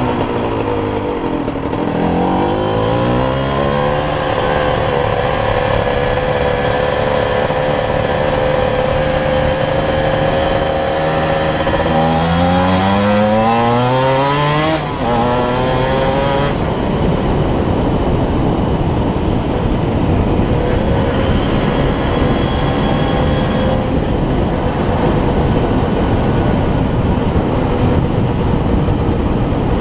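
A 125cc two-stroke sport motorcycle ridden on the road: the engine's revs drop, then climb, hold steady, and climb steeply again through the gears until a gear change about halfway. After that the engine runs on at a rougher, steadier note.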